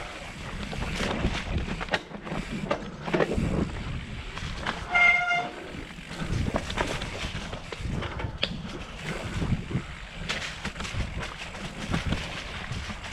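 A vehicle horn gives one short toot about five seconds in, over a steady noisy background with scattered knocks.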